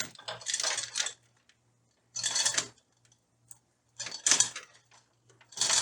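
Hand ratchet clicking in short runs of quick clicks, three runs about two seconds apart and a fourth starting at the end, as a fastener is loosened.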